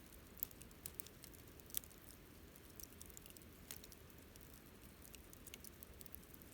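Wood fire burning, with soft irregular crackles and pops from the burning wood over a faint low rumble; a few sharper pops stand out.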